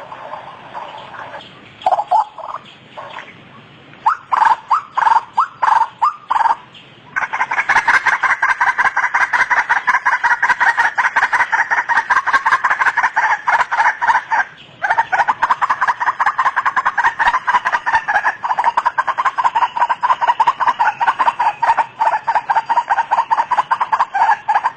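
White-breasted waterhen calling its harsh, repeated 'ruak' notes: a few separate calls at first, then from about seven seconds in a rapid, unbroken run of calls, with one short pause around the middle.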